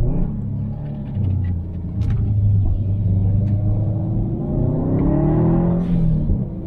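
Turbocharged EJ257 2.5-litre boxer engine of a tuned Subaru WRX STi with a muffler-deleted exhaust, heard onboard. It pulls steadily at low revs, then accelerates with revs rising from about halfway and falls off near the end as the throttle lifts, with a few sharp exhaust pops along the way.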